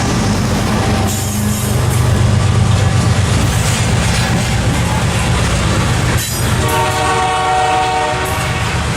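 A train going by, its diesel locomotive running with a steady low drone and wheels rolling on the rails; about two-thirds of the way in, its multi-note horn sounds once for about two seconds.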